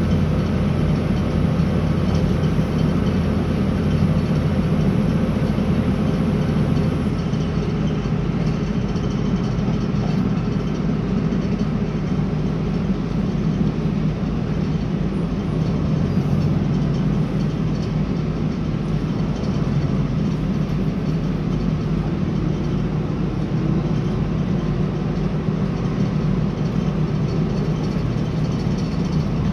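Interior cabin noise of a Northern Ireland Railways CAF Class 3000 diesel multiple unit running at speed: a steady low rumble from the train's running gear and engine, unchanging throughout.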